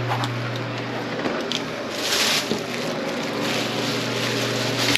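A power drain auger's motor hums steadily and stops about a second in. Wet scraping and squishing follows as the cable and the debris it pulled from the drain line are handled, loudest about two seconds in and again near the end.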